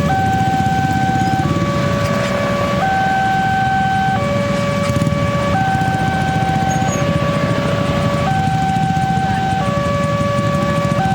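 Railway level-crossing warning alarm sounding two alternating tones, high then low, each held about a second and a half, over a steady low rumble.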